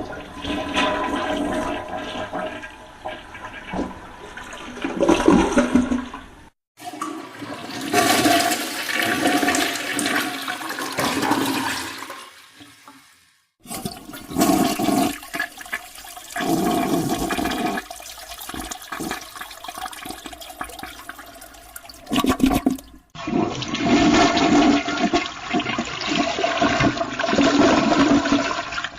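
Toilets flushing, four separate flushes played one after another: each a loud rush of water swirling down the bowl, cut off abruptly before the next begins.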